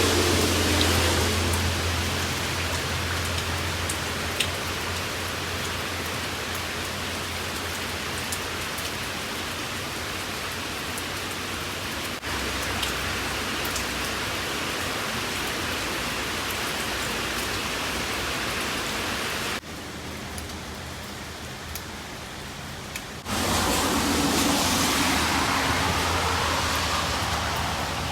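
Steady rain falling, an even hiss. It drops abruptly for a few seconds about twenty seconds in, then comes back louder.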